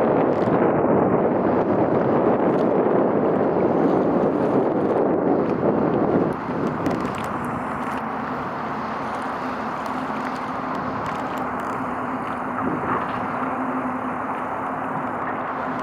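Wind buffeting the microphone over a steady outdoor rumble. The wind noise drops suddenly about six seconds in, leaving a quieter, even rumble with a faint low steady hum.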